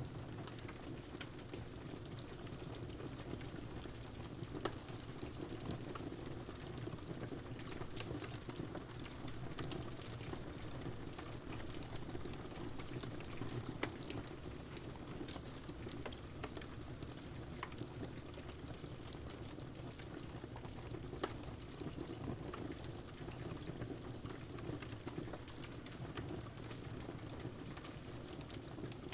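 Steady rain with the scattered sharp pops and crackles of a burning wood fire over it.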